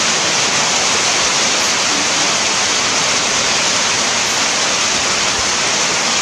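Steady rain falling on the forest canopy, an even, unbroken hiss.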